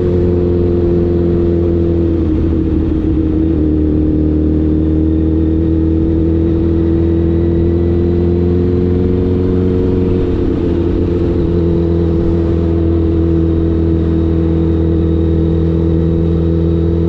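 Honda CBR1000RR's inline-four engine running at nearly steady revs while riding, its pitch easing slightly twice and recovering.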